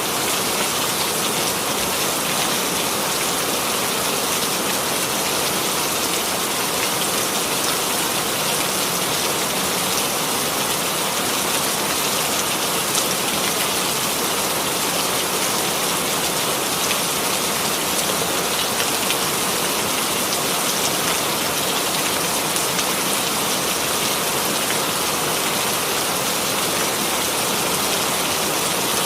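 Steady rainfall: a dense, even hiss of rain with fine drop patter, no change in intensity.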